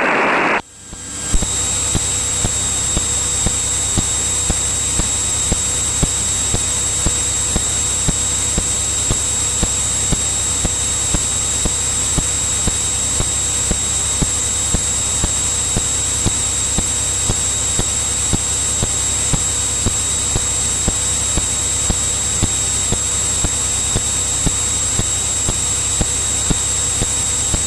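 Cockpit noise of a Cirrus single-engine piston aircraft in cruise: a steady engine and airframe hiss with a fixed high-pitched whine and regular faint ticks, cutting out briefly for about a second near the start.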